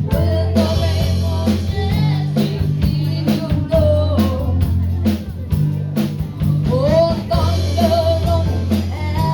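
Live rock band playing: a drum kit keeps a steady beat of about two strikes a second under a repeating bass line and guitar, with a melody line bending above.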